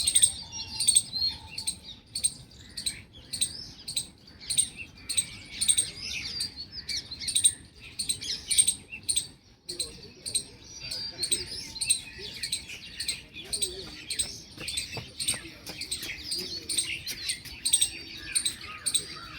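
A busy chorus of small birds chirping and twittering, with a sharp high note repeating about twice a second through it.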